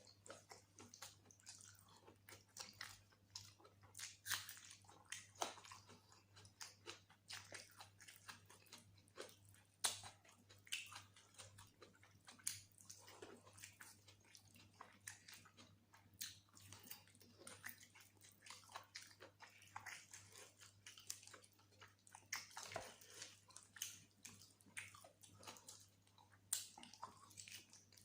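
Soft, close-miked chewing and wet mouth sounds of someone eating spicy mutton curry with rice and gravy: a constant irregular run of small smacks and clicks.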